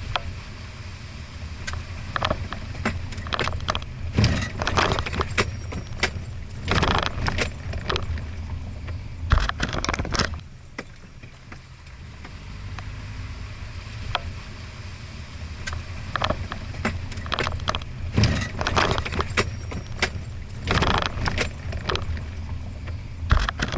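Toyota Hilux Surf RZN185 4WD driving over a rough forest road: a steady low engine hum under frequent rattles and clunks from the body and the bumps, easing off for a few seconds about halfway through.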